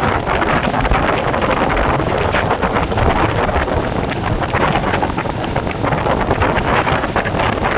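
Heavy wind buffeting the microphone of a moving Royal Enfield Meteor 350 motorcycle, with the bike's single-cylinder engine running underneath.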